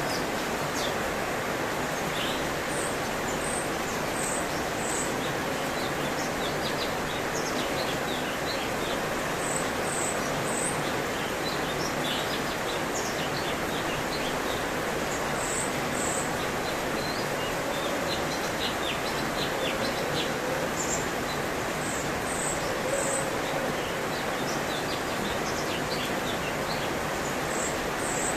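Cucak cungkok giving short, high chirps and notes, often in quick clusters of two or three, scattered over a steady rushing background noise that is the loudest sound throughout.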